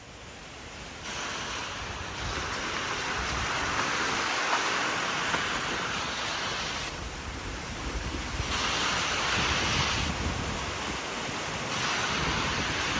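Strong severe-thunderstorm wind rushing steadily, swelling about two seconds in and then rising and falling in gusts, with the wind buffeting the microphone.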